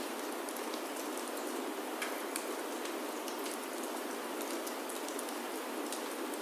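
Steady rain falling on a wooden chalet roof, mixed with a crackling wood fire: an even hiss of rain with scattered sharp pops and ticks throughout.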